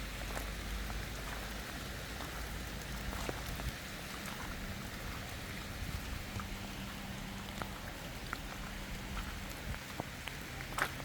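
Steady rain falling, with scattered individual drops ticking and dripping on a surface. A low steady hum underneath drops away about a third of the way in and fades out by about two-thirds of the way.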